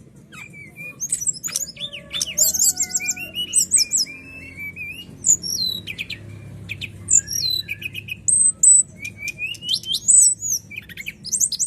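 Brown-chested jungle flycatcher singing a continuous, varied song of clear whistles, rapid trills and falling slurred notes, over a faint low steady hum.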